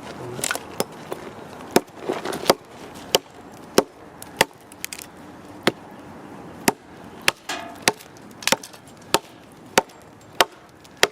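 An axe chopping into a log of very hard wood: about fifteen sharp strikes, roughly one every half-second to second, with a couple of short pauses.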